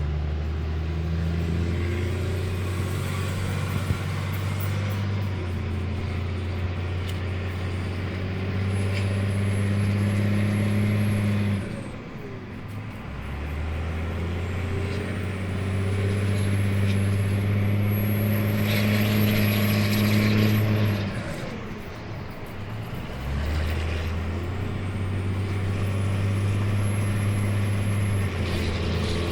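2002 Dodge Ram's 5.9 L Cummins inline-six turbodiesel, its turbo silencer ring removed, revved up and held three times; each time a high turbo whistle slowly climbs and cuts off as the revs drop back.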